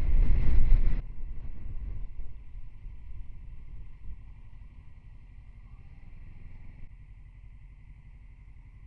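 Motorcycle riding noise on a helmet or bike microphone: wind buffeting and engine rumble, loud at first, dropping sharply about a second in and then fading to a low steady rumble as the bike slows.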